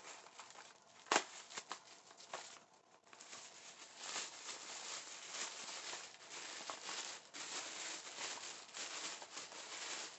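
Wrapping being handled and pulled off an item, a continuous crinkling rustle full of small crackles, with a single sharp click about a second in.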